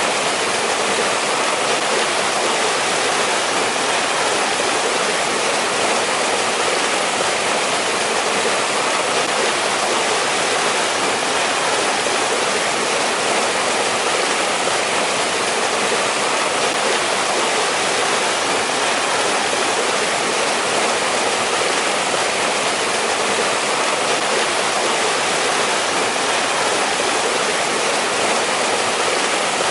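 Mountain valley stream running over rocks: a steady, unbroken rush of flowing water.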